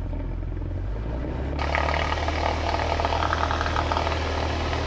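Cessna 172's four-cylinder piston engine coming up to full power for the takeoff roll, heard through the headset intercom. Its hum shifts about a second in, and shortly after a louder rushing noise cuts in and holds.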